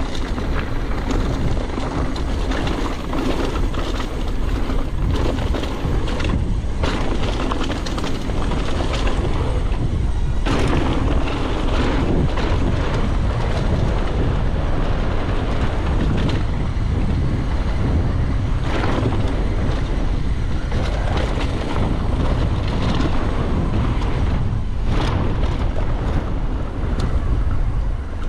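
Wind buffeting the microphone of a mountain bike rider's camera, over the steady rattle of the bike running down a rough dirt trail, with several sharp knocks from the bike over bumps.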